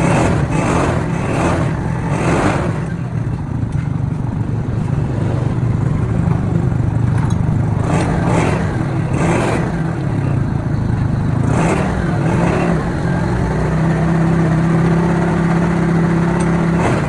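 A motor vehicle engine running steadily with a low drone, with short passing rushes of noise. A steady hum joins in about fourteen seconds in.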